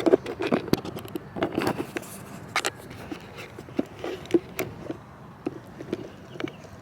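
Walking footsteps with irregular soft knocks, clicks and rubbing, as from a hand-held phone being carried.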